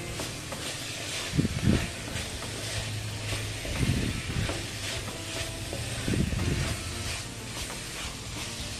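Spice-coated chicken pieces sizzling in a hot pan while a wooden spatula stirs them, with louder scraping strokes against the pan about one and a half, four and six seconds in.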